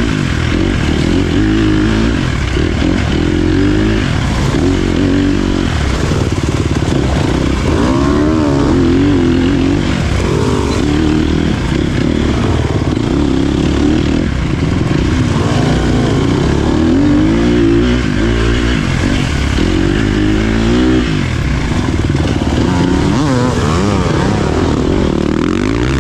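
Dirt bike engine being ridden hard off-road, its pitch rising and falling over and over as it revs up and backs off.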